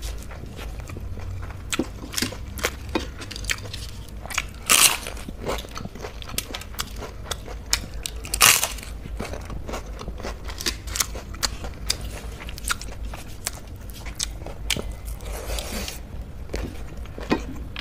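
Close-up eating sounds: chewing, with sharp crunches of crisp papad being bitten, the loudest about five seconds and eight and a half seconds in, among many small crackles and smacks.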